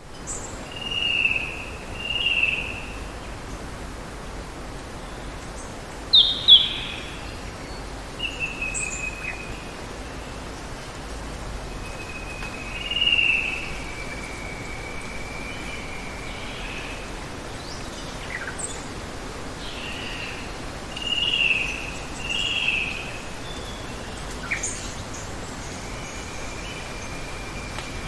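Steady hiss of running water with birds chirping now and then over it: short whistled calls, some in pairs, the loudest a couple of sharp chirps about six seconds in.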